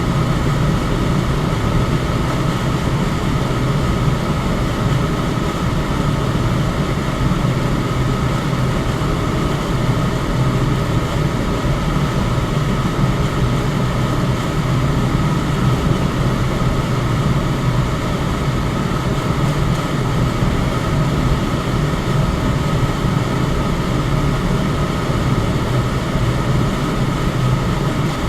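Electric fan running steadily: even air noise with a low hum and a faint steady whine, unchanging throughout.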